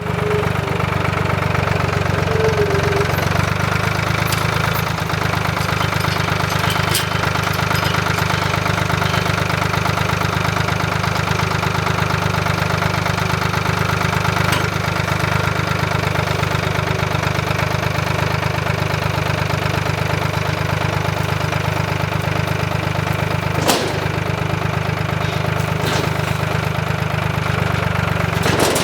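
An engine running steadily at an even speed, with one sharp knock about 24 seconds in.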